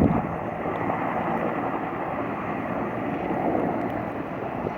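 Firefighting helicopter heard as a steady rushing noise of rotor and engine.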